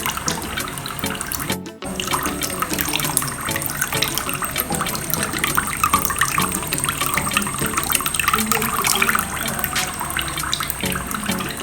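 Water pumped by a small DC pump pouring steadily from a plastic bottle into a basin, over background music. The sound cuts out briefly about two seconds in.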